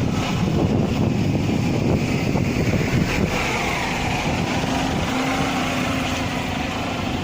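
A bus running: a steady low engine and road rumble, with a steady hum coming in about halfway through.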